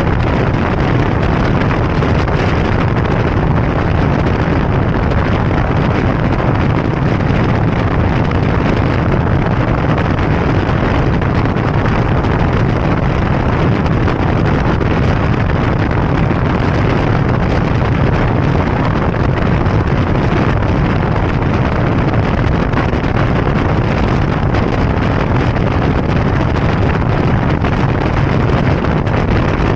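Steady wind rush buffeting the microphone over the running of a motorbike at speed.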